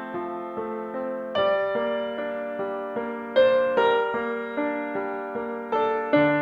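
Piano music: a gentle melody over chords, the notes struck one after another and left to ring and fade.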